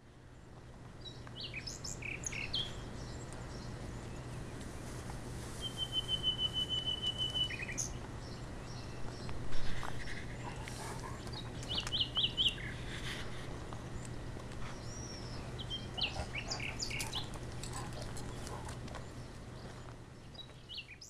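Birds chirping and calling, with one rapid trill of repeated high notes lasting about two seconds, over a steady low hum. The sound fades in at the start and fades out near the end.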